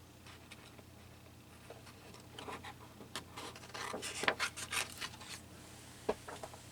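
Paper being handled and rubbed on a craft table: a run of short scratchy rustles in the middle, then a single sharp click about six seconds in.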